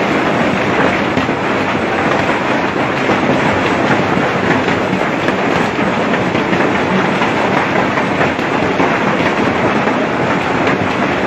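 Loud, steady rushing noise with no pauses and no clear rhythm.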